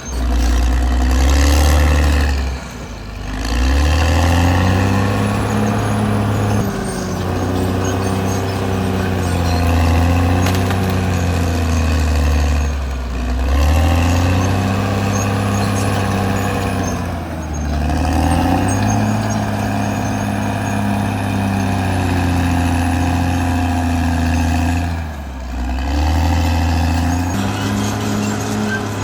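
Caterpillar D6R XL bulldozer's diesel engine working under load. Its pitch sags sharply and recovers about four times, as the dozer lugs down while pushing and then revs back up.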